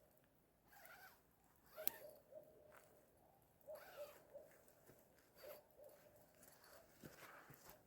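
Faint animal calls: short low hoots, repeated in small groups of two or three, with scattered soft clicks and rustles.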